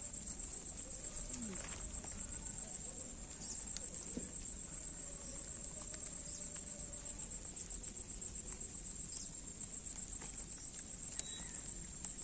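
A steady high-pitched insect trill, like a cricket, over a low outdoor rumble, with a few faint clicks and rustles from tent poles and fabric being handled.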